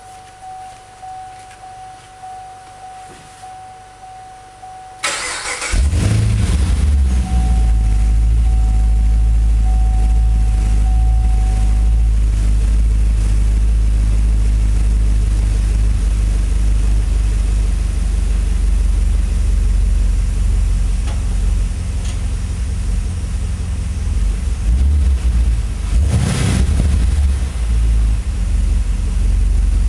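2010 Camaro SS 6.2-litre V8 cranked and starting about five seconds in, then running steadily through its exhaust, with one brief rise in level near the end.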